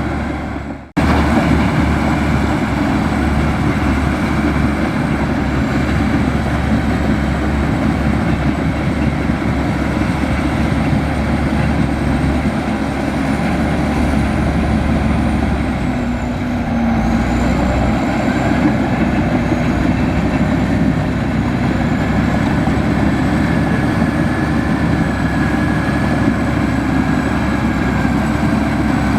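Diesel engine of heavy earthmoving machinery running steadily, with a brief break about a second in.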